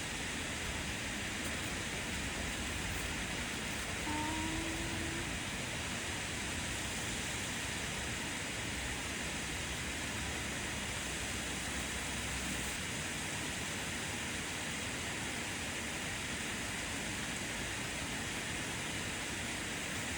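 Steady rushing of a waterfall, a constant even noise. A brief faint rising squeak sounds about four seconds in.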